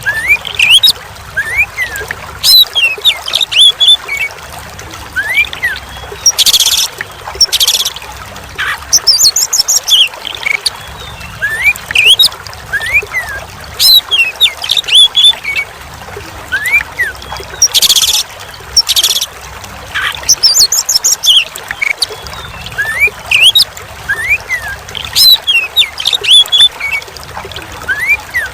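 Oriental magpie-robin (kacer) singing a varied song of rising whistles and quick chirps over steadily trickling water. Short noisy bursts recur, and the same sequence repeats about every 11 seconds.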